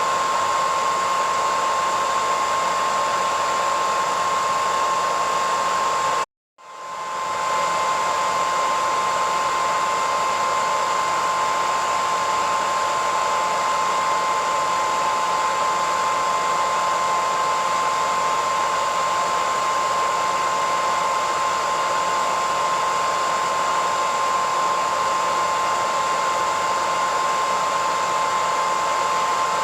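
Hair dryer running steadily: a even blowing hiss with a high steady whine. About six seconds in it cuts out completely for a moment and fades back up within a second.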